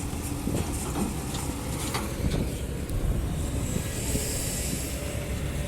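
Kobelco SK200-10 hydraulic excavator's diesel engine running steadily, with a few faint knocks and a brief hiss about four seconds in.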